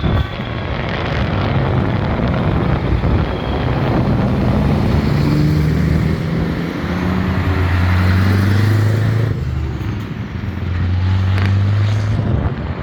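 Vintage trucks driving past one after another, their engines giving a low steady note that swells and fades as each goes by.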